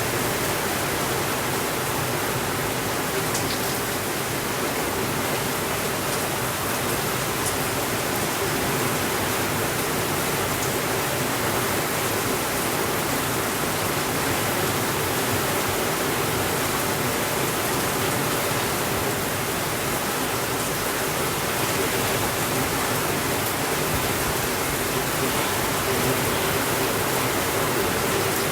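Steady rainfall, an even hiss with no thunder. A couple of faint ticks stand out briefly, about three and seven seconds in.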